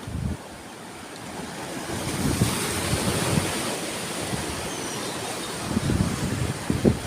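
Sea waves breaking and washing in, the surf swelling about two seconds in, with wind buffeting the microphone near the end.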